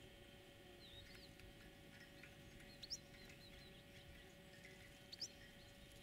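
Faint, short chirps of small birds every second or so over a low steady hum, with two louder rising chirps about three seconds in and again near the end.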